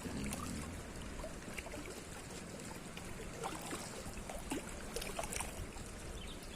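Low, steady wash of seawater lapping, with scattered small splashes and trickles.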